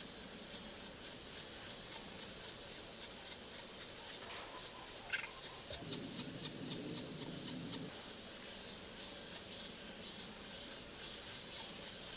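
Rhythmic high chirping, about four chirps a second, from a small animal. About five seconds in comes one sharp, louder call, followed by about two seconds of low rustling noise.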